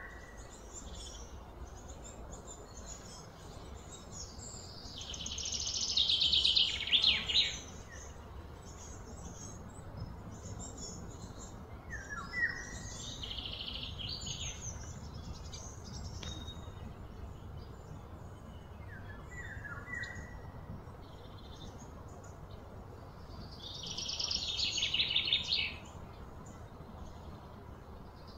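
Birds calling: a loud, rapid, high trill lasting two to three seconds, heard twice, with short falling chirps now and then in between.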